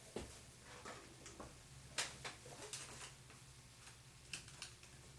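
A handful of light clicks and knocks at irregular spacing, the sharpest about two seconds in: engine parts being handled and set down on a bench.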